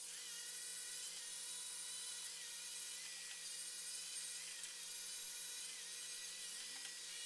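Electric angle grinder grinding a metal bracket clean, a steady high whine that wavers slightly in pitch as the disc bears on the metal.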